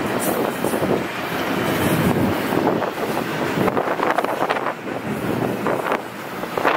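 Double-stack intermodal freight train's well cars rolling past, a steady noise of steel wheels on rail, with wind buffeting the microphone.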